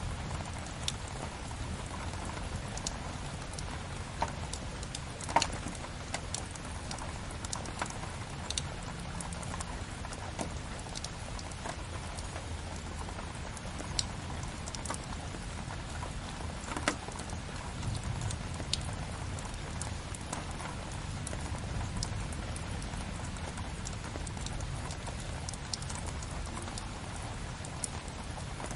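Steady rain with a low rumble, layered with a crackling wood fire: scattered sharp pops and clicks, the loudest about five seconds and seventeen seconds in.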